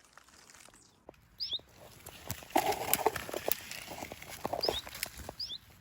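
Twigs snapping and leaves rustling as someone pushes through undergrowth on foot, with crackles thickest in the middle. A small bird gives a short, high call three times.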